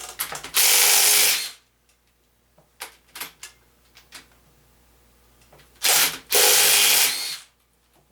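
A power tool runs in two bursts of about a second each, the second briefly interrupted, with a few light metal clicks between them. These are the fasteners being broken loose while the piston and rod assemblies are removed from a small-block Chevy 350 short block.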